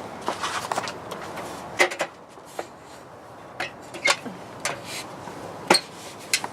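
Scattered short clicks and rustles at irregular intervals, over faint background noise.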